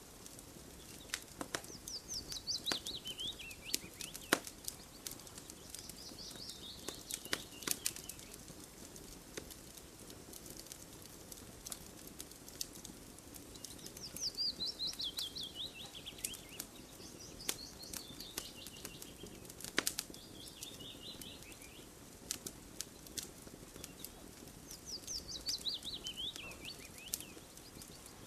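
Wood fire crackling, with irregular sharp pops. A songbird sings a fast trill that falls in pitch over about two seconds, several times over.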